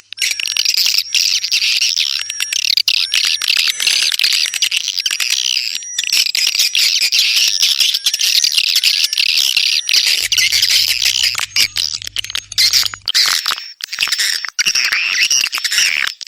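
Edible-nest swiftlets calling: a dense, continuous chorus of rapid high twittering chirps mixed with many quick clicks. This is the kind of swiftlet call track played to lure swiftlets into a nesting house.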